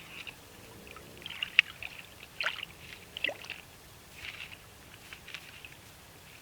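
A beaver working branches at the water's edge: a few sharp cracks of wood and short splashes, the loudest about one and a half and two and a half seconds in.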